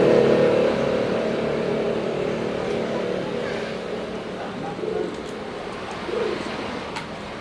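A passing motor vehicle's engine hum fading away over the first second or so. Then a pigeon coos twice, briefly, about five and six seconds in.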